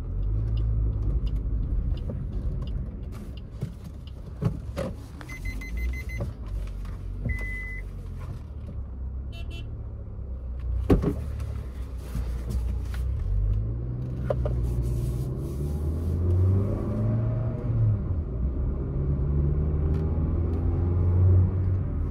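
Maruti Swift's 1.2-litre K-series petrol engine and road noise heard from inside the cabin: a steady low rumble, then in the second half the engine note rises and falls as the car accelerates. Two short electronic beeps come about a quarter of the way in, and a single knock near the middle.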